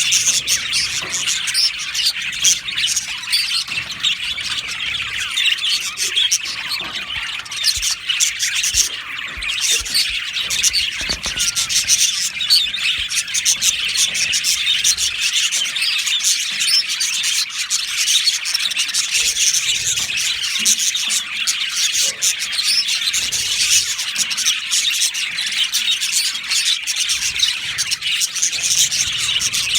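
A colony of budgerigars chirping and chattering together: a dense, unbroken chorus of many overlapping high chirps and warbles.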